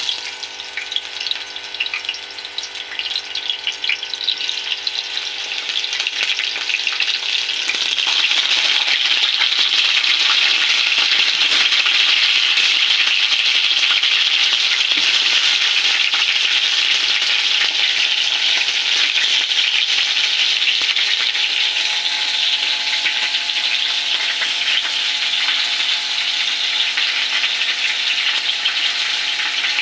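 Sliced raw potatoes frying in hot oil in a steel pan. The sizzle comes in crackling spurts as slices are added and builds over the first several seconds, then settles into a steady, dense sizzle from about eight seconds in.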